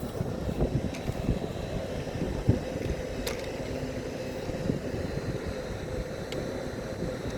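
A train running at the station: a steady low rumble with a constant hum and a few light clicks.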